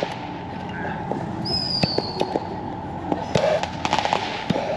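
Fireworks going off: scattered sharp pops and crackles over a steady crackle, with a short whistle about a second and a half in that falls slightly in pitch.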